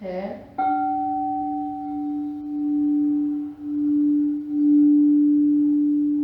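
Quartz crystal singing bowl for the note D (ré) sounded about half a second in and left ringing: one long pure tone with faint higher overtones, swelling and dipping slowly in loudness.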